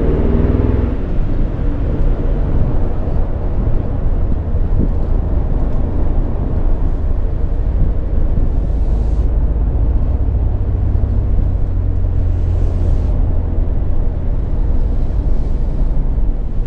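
Ford Mustang's engine and road noise heard from inside the cabin while driving: the end of an acceleration, rising in pitch, fades in the first second, then a steady low rumble as the car cruises.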